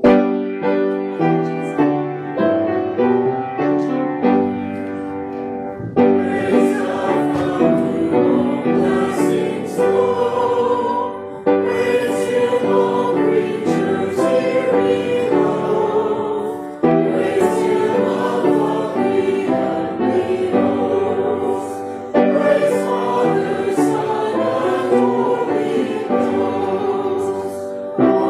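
Church choir singing a hymn-like anthem with piano accompaniment. The piano plays alone at first, and the voices come in about six seconds in.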